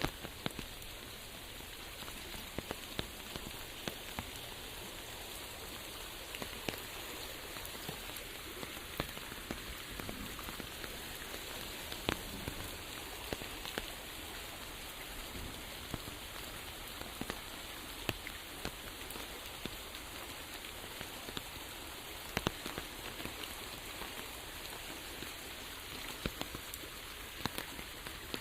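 Steady rain falling on a surface: an even hiss with many distinct drop impacts ticking at irregular intervals.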